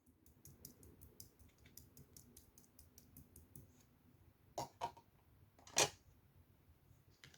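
Light, quick tapping clicks, about five a second, for the first three and a half seconds. Then two louder taps close together, and a third, loudest tap about a second later.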